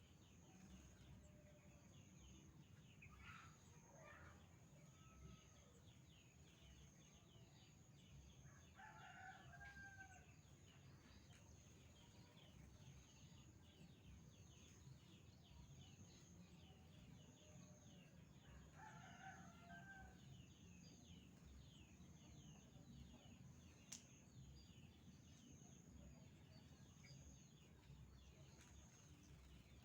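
Faint rooster crowing in the distance, twice, about ten seconds apart, with softer calls before them and a steady thin high whine underneath.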